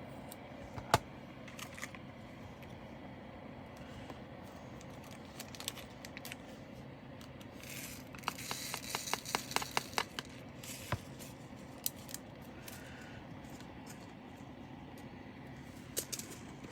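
Small plastic bags of diamond painting drills being handled: scattered light clicks and rustling, one sharper click about a second in, and a quick run of about a dozen clicks with a hiss near the middle.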